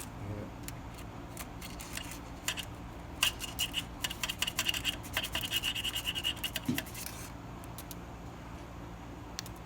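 Metal tool scratching and scraping on engine parts: scattered small ticks, then a dense scratchy, squeaky rasp from about three to seven seconds in.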